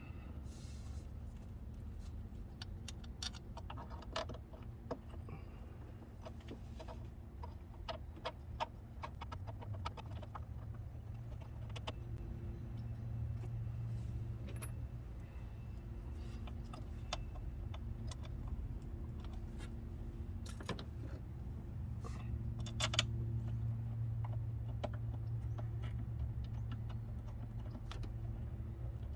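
Scattered light metallic clinks and rattles of hand tools and metal parts being handled, over a steady low hum that grows a little louder about halfway through.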